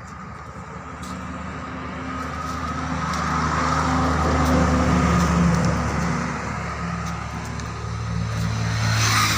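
Mahindra Bolero's turbo diesel engine running, growing louder over the first few seconds and then easing off, rising again near the end with a brief hiss.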